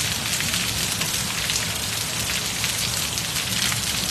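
Heavy rain falling steadily onto paving, a dense, even patter of drops.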